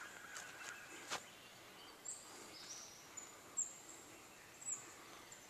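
Quiet woodland ambience with a songbird giving several short, high chirps and whistles. A few soft clicks come in the first second or so.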